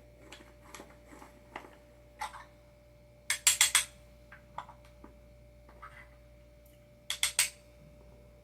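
Two short bursts of sharp clicking and clinking from small hard parts being handled, about three seconds in and again near the end, with a few faint taps between.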